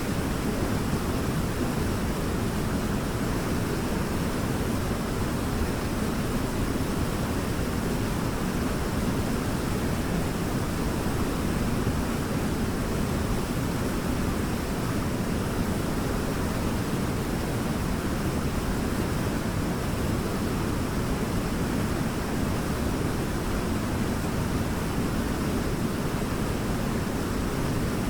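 A waterfall rushing steadily, an even unbroken wash of falling water that is heaviest in the low range.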